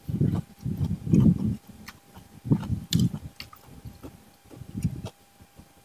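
A person chewing a mouthful of food close to a clip-on microphone: irregular soft, muffled mouth sounds with small wet clicks, quieter near the end.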